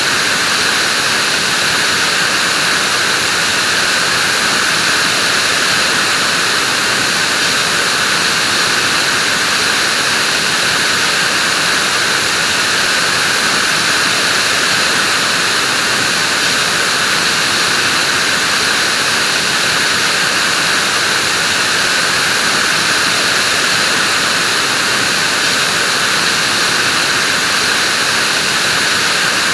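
Vacuum cleaner running steadily, a continuous whooshing hiss with a whine in the upper range and no change in pitch or level.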